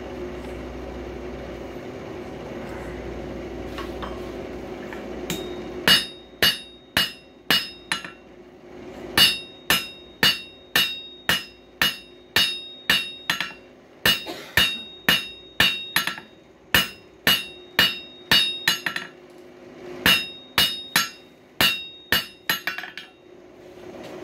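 Hand hammer striking hot coil-spring steel on an anvil, about two ringing blows a second in several runs with short pauses, drawing the steel out for a screwdriver. A steady hum comes before the first blow, about six seconds in.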